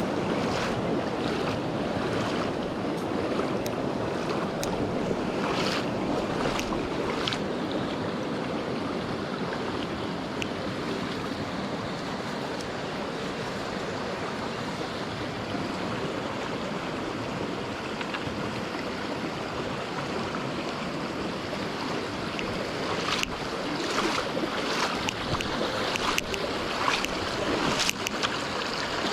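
Mountain stream water rushing steadily, with scattered clicks and knocks in the first few seconds and again near the end.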